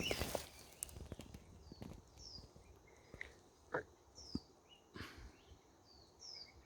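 Small birds giving short, high calls that fall in pitch, repeated every second or two, with a few sharp clicks and rustles between them.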